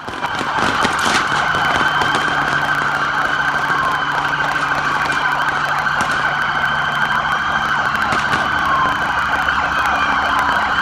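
Police sirens wailing over a steady wash of traffic and engine noise, with several sharp cracks of gunfire scattered through it.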